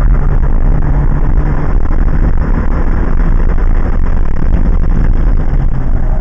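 2001 Subaru Impreza 2.5 RS's 2.5-litre flat-four engine pulling under acceleration, heard from inside the cabin as a loud, steady low drone.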